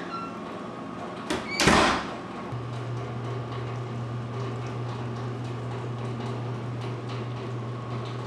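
A wooden door shutting: a short click, then a loud thump about a second and a half in. A steady low hum then sets in and holds.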